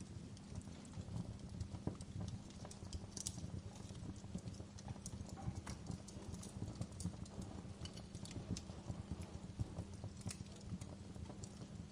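Wood fire crackling in a fireplace: many irregular pops and snaps, a few louder than the rest, over a low steady rumble.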